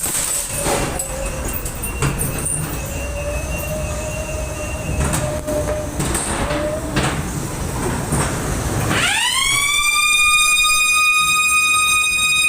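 Ghost train car rumbling and clattering along its track, with scattered knocks. About nine seconds in, a loud, piercing, siren-like ride sound effect swoops up and then holds a steady pitch.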